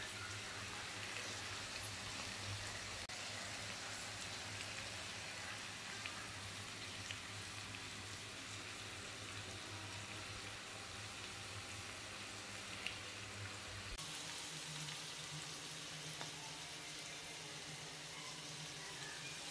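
Faint, steady sizzling of a beef stir-fry in a frying pan, with small crackles. A low steady hum runs underneath and shifts slightly higher about fourteen seconds in.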